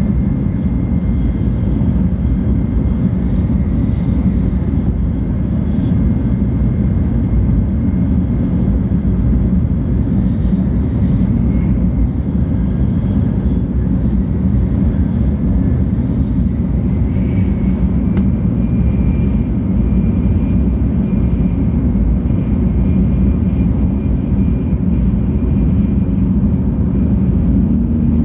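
Steady low rumble of a 700 Series Shinkansen running at speed, heard inside the passenger cabin, with a faint high whine over it.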